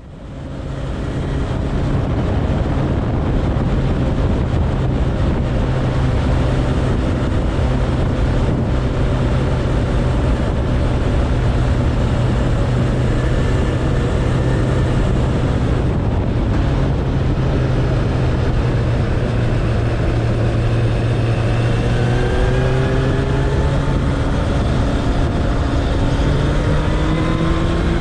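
Suzuki Bandit 1200's inline-four engine running steadily, with a dense rushing noise throughout. In the last several seconds the engine pulls harder, its pitch rising as the bike accelerates.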